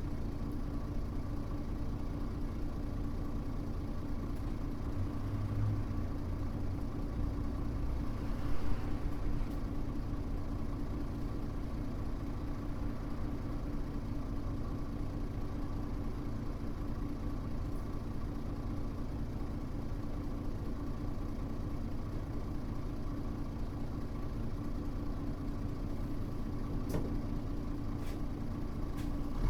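Mitsubishi Fuso U-MK618J bus engine running steadily at idle, heard from inside the cabin. There is one brief louder noise about eight seconds in.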